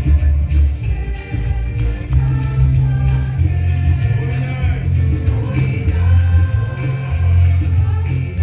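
Gospel music: a choir singing over a heavy bass line, with a steady percussion beat.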